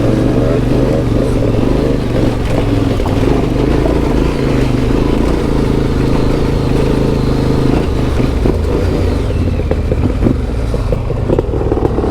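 Yamaha Ténéré 700's CP2 parallel-twin engine with an Akrapovic exhaust, running at steady revs while riding off-road. About eight seconds in the engine note drops, and short knocks and clatter come in over it.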